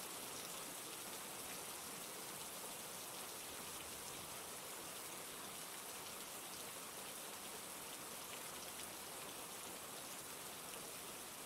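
Steady rain falling: an even, dense hiss with faint ticks of individual drops.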